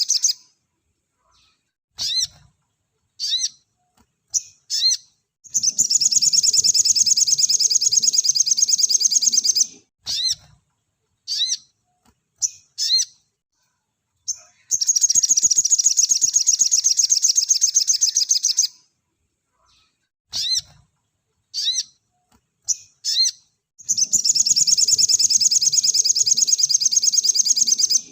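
Sogon (crimson sunbird) singing: three long, dense, rapid high trills of about four seconds each, separated by short sharp chirps with quick upward sweeps.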